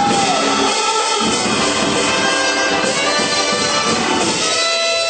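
Live church band playing a loud, continuous praise break, with sustained horn-like tones over the music.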